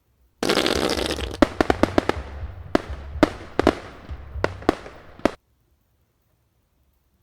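Fireworks going off: a loud crackling burst about half a second in, followed by a string of about a dozen sharp bangs over the next four seconds, then cutting off abruptly.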